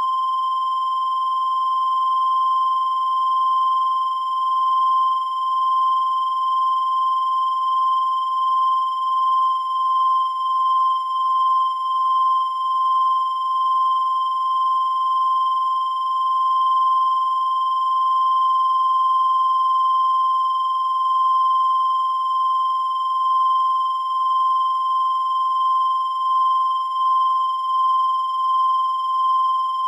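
A continuous high-pitched electronic tone, held at one pitch without a break, its loudness wavering slightly.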